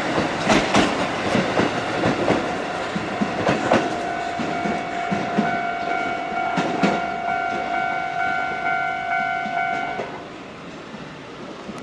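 Kotoden electric train passing close by, its wheels clacking over rail joints in quick strings of clicks. From about four seconds in, a steady ringing tone with overtones sounds over the train for about six seconds and cuts off suddenly, leaving a quieter rumble.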